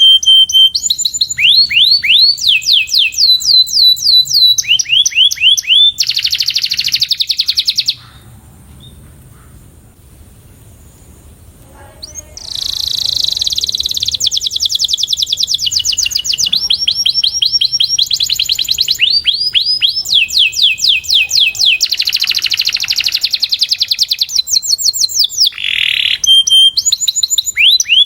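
Canary singing: fast rolls of repeated rising notes and trills. It breaks off for a few seconds about eight seconds in, then resumes with more rolls.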